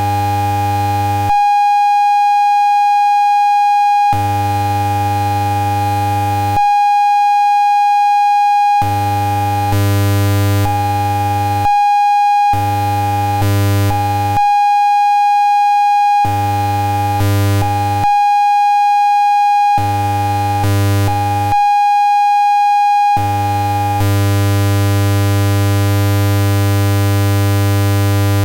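Function generator output, loud and electronic, switching back and forth between a clean pure tone of about 800 Hz and a buzzy low tone of about 100 Hz. Each pure-tone stretch lasts one to three seconds. The buzzy tone holds steadily from about two thirds of the way in.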